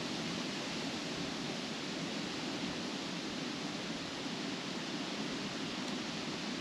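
Steady wind rustling through tree leaves, an even hiss without gusts.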